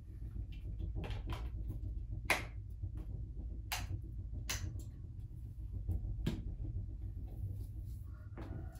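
A handful of separate light knocks and clicks, about six spread irregularly over the stretch, over a steady low hum.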